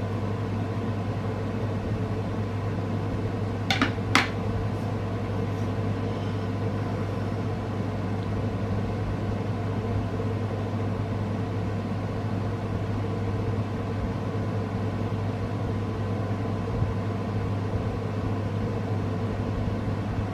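Steady low machine hum, like a fan or an appliance running in a small room, with two short sharp clicks close together about four seconds in.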